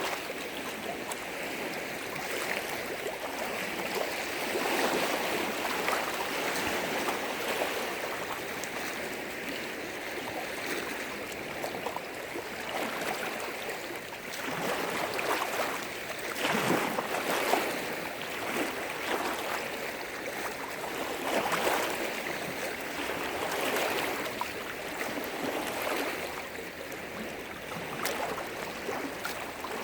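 Lake waves splashing and breaking against the shore in a continuous wash that swells irregularly every few seconds, loudest about halfway through.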